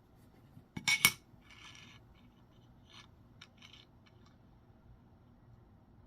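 A coin clinking as it is handled and set down: a sharp double click about a second in, followed by a few faint scrapes and ticks.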